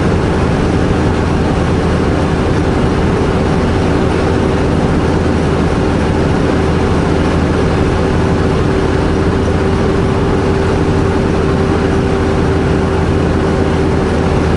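Semi truck's diesel engine and road noise at a steady cruise, an even rumble with a constant mid-pitched hum over it.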